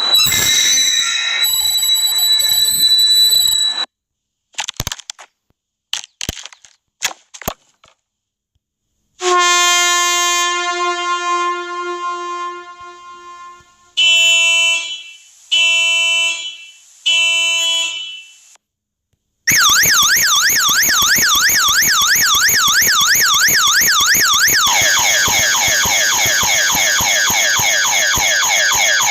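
A string of separate sound effects: a shrill tone with noise, a few scattered clicks, a long horn blast that fades out, three short horn honks, then an electronic siren wailing up and down that switches to a faster pattern near the end.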